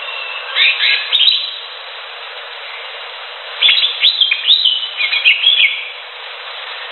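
Green leafbird (cucak hijau) singing in two bursts of quick, sweeping whistled notes: a short phrase about half a second in and a longer one from about three and a half seconds, over a steady background hiss.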